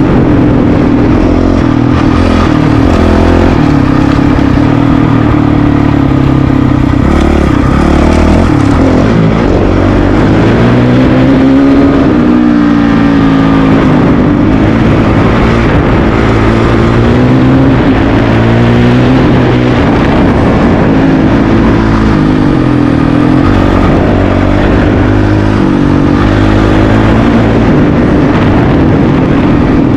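Honda CRF450RL's single-cylinder four-stroke engine under way on dirt, loud, its pitch rising and falling over and over as the throttle opens and closes.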